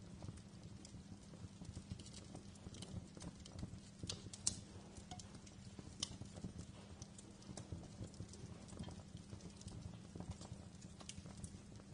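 Wood fire crackling in a fireplace: a steady low rumble with many small, irregular pops and snaps. One sharper pop comes about four and a half seconds in.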